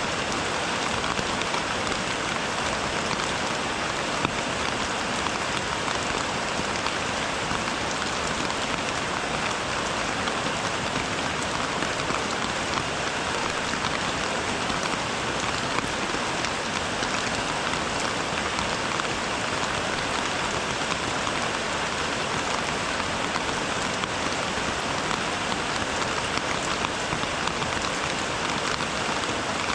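Rain falling steadily: an even hiss with a few distinct drops ticking now and then.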